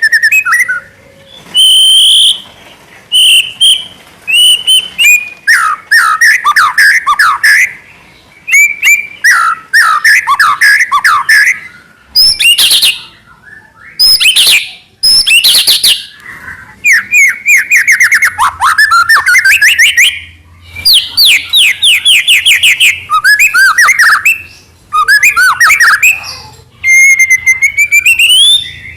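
White-rumped shama singing loudly: varied phrases of clear whistles, rapid trills and sweeping notes, each lasting a second or two and separated by short pauses.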